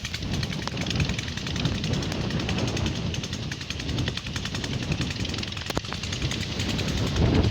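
Strong wind rumbling and buffeting, with a fast, even rattle of clicks over it.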